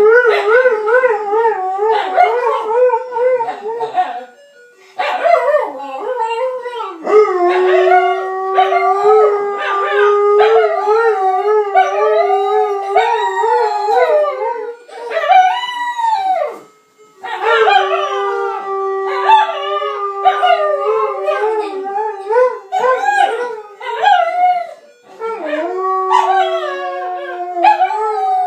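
A saluki and a Chinese crested howling in wavering, long drawn-out notes along with the melody of a Swedish ice cream van's jingle. The howling breaks off briefly twice, about four seconds in and again past the middle.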